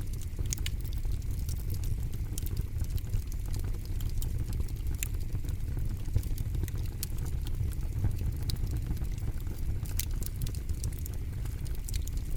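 Campfire burning, with a steady low rumble of flame and frequent irregular sharp crackles and pops from the wood.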